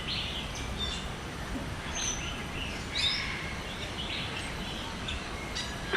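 Many birds chirping and calling in an aviary over a steady background hum: short, high chirps and brief whistled notes from several birds, scattered and overlapping.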